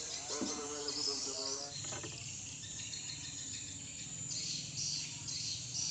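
Night insects, crickets among them, chirring steadily in a high pulsing band; a voice is heard over them for the first two seconds or so.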